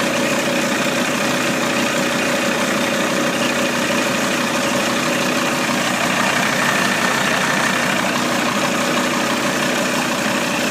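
Volkswagen ACV 2.5 TDI five-cylinder diesel engine idling steadily during a test run.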